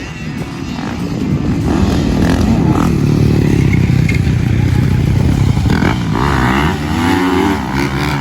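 Motocross dirt bike engine revving hard, its pitch rising and falling as the throttle opens and closes, with quick swings in revs late on.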